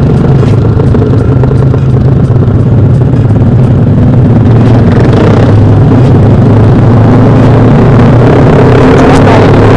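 Motorcycle engine running through a loud aftermarket exhaust at a steady, low note while riding.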